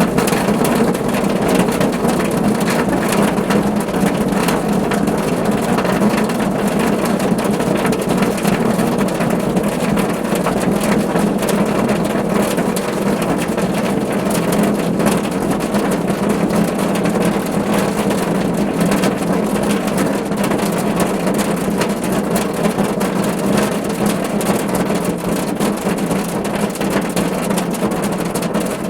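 Steady, heavy rain drumming on a car roof: a dense patter of countless drops over a low, even rumble.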